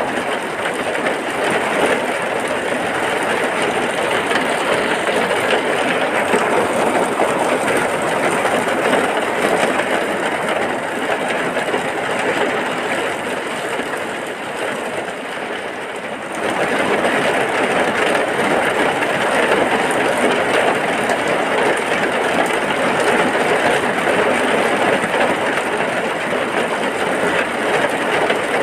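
Heavy rain falling as a steady, dense hiss. About sixteen seconds in it eases a little, then abruptly comes back at full strength.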